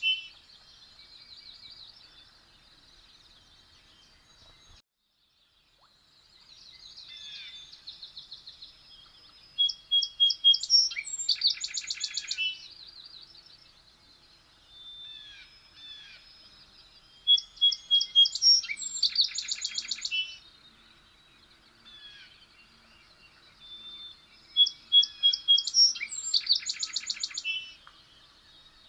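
A songbird singing, repeating a song of high chirps and fast trills about every seven seconds, over fainter chirping from other birds. The sound cuts out briefly about five seconds in.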